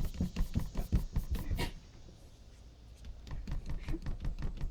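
A cat's paws pattering fast against window glass as it scrambles at the pane, several taps a second. The pattering drops away for about a second in the middle, then starts again.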